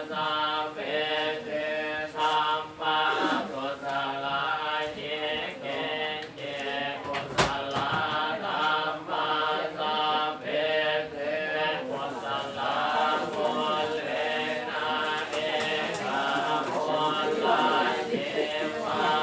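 A group of voices chanting Buddhist Pali verses together in a steady, near-monotone recitation, with one sharp knock about seven seconds in.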